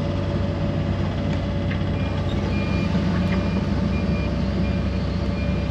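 A heavy machine's engine running steadily, with a backup alarm beeping in short, evenly spaced high beeps, roughly one to two a second, starting about two seconds in.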